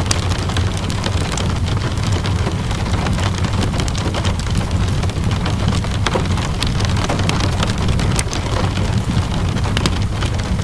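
Steady rainfall blended with a crackling wood fire: a constant low, even rush of rain with scattered sharp pops and ticks throughout.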